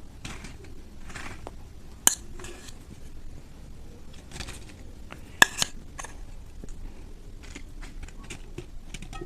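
A spoon scraping and clinking against dishes as spiced potato filling is spooned into puri shells, with two sharp clinks, about two seconds in and, loudest, about five seconds in.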